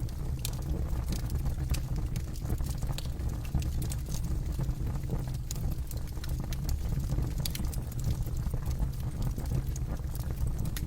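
Campfire burning, a steady low rush of flames with frequent sharp, irregular crackles and pops of burning wood.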